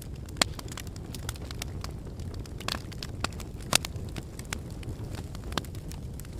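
Wood logs burning in a fireplace: a steady low rumble of flames under irregular sharp crackles and pops, with two louder pops, one about half a second in and one a little past the middle.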